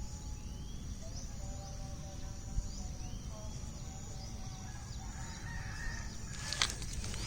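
Rural outdoor ambience: small birds chirping, a steady high insect buzz, and a rooster crowing, with a couple of sharp knocks near the end.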